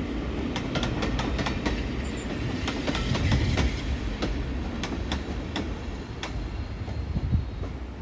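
A train passing on jointed track: a steady rumble with the wheels clicking over the rail joints. The clicks thin out and the rumble fades toward the end.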